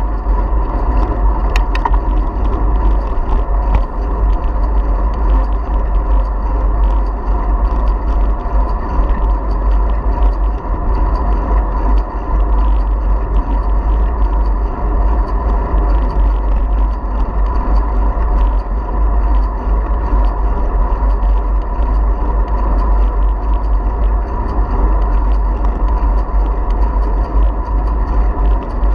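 Steady, loud riding noise from a bicycle carrying a GoPro camera: a deep rumble of wind on the microphone and tyres on the path, with a few light clicks early on.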